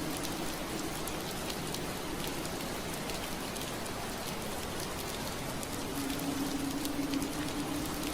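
Steady rain on a window pane: a dense hiss with scattered sharp drop ticks. Under it runs a low steady hum that fades out within the first second and comes back about six seconds in.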